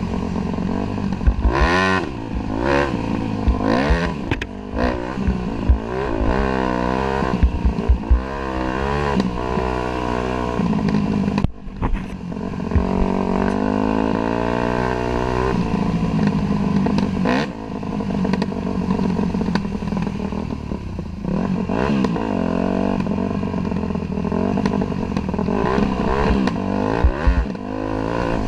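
Dirt bike engine revving up and down as it is ridden, its pitch climbing and falling again and again through the gears, with scattered knocks and clatter. The engine drops away briefly about twelve seconds in, then picks up again.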